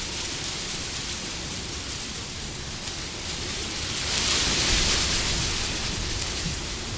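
Wind blowing steadily, a gust swelling about four seconds in and easing off.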